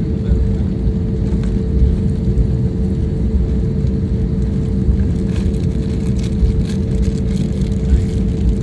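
Steady drone of an airliner in flight heard from inside the cabin: a constant low rumble of engines and airflow with a steady hum on top.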